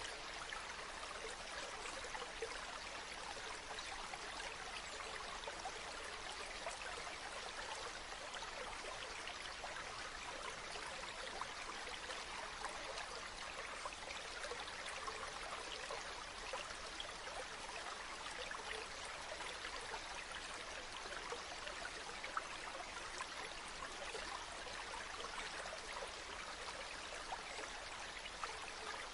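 A shallow river or stream flowing and babbling steadily over stones, a continuous even rush of water with small splashes and trickles.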